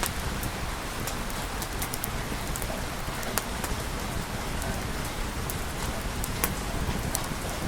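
Steady rain, a dense even hiss with scattered sharp clicks throughout.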